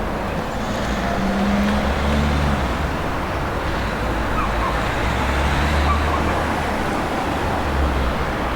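Street traffic: a motor vehicle's engine running with a low hum that swells twice, over steady town background noise.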